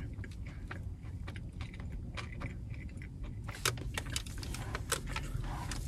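Close-up chewing of a mouthful of sub sandwich: a run of small wet mouth clicks and smacks, sharper for a stretch about three and a half seconds in, over a low steady hum.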